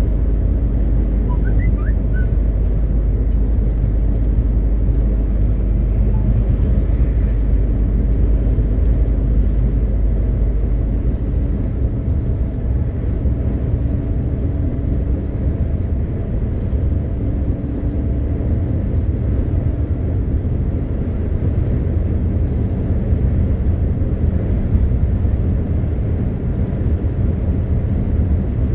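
MAN TGX 520 truck's six-cylinder diesel engine and road noise, a steady low rumble while driving. The deepest part of the rumble eases about eleven seconds in.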